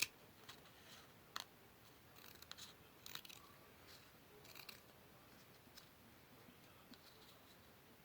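Scissors snipping paper in short, separate cuts, about one every second or so, with quiet pauses between them.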